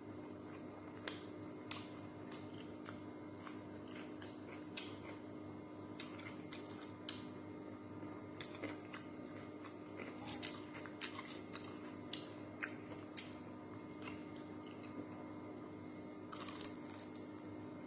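Close-up chewing and crunching of fried galunggong (round scad), with many small wet mouth clicks and smacks scattered through and a longer crunchy burst near the end. A faint steady hum sits underneath.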